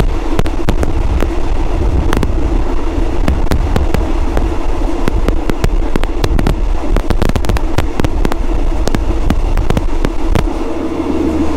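Loud rumble of a moving passenger train with a dense, irregular crackle of sharp clicks and clatter. The deep part of the rumble eases near the end.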